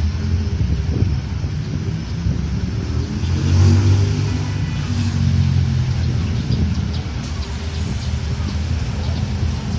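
Low engine rumble of a motor vehicle passing, loudest about four seconds in.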